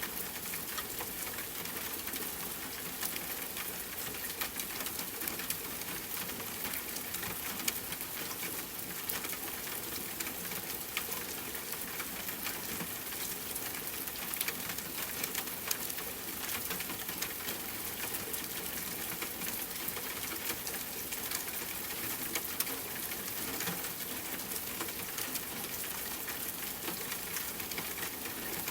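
Steady rain with many small, sharp crackling pops from a campfire scattered through it.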